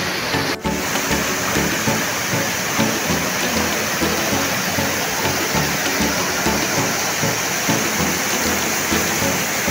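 Jumog waterfall's steady rush of falling water, with background music faintly underneath; the sound breaks off for a moment about half a second in.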